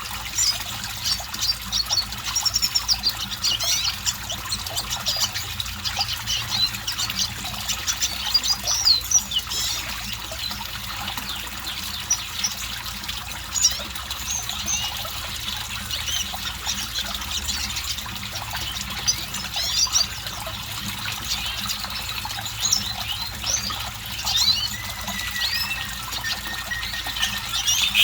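Red siskin in full song: a fast, continuous twittering of high chirps and trills, with one longer drawn-out note a little before the end.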